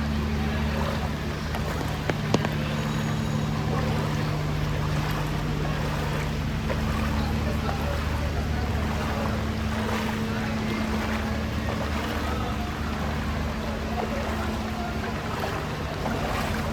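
An engine running at a steady low hum over a haze of flooded-street noise, with a couple of sharp clicks about two seconds in.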